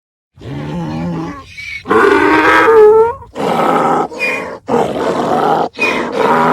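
Donkey braying: a long call with sliding pitch about two seconds in, then a run of repeated hee-haw heaves, about one a second.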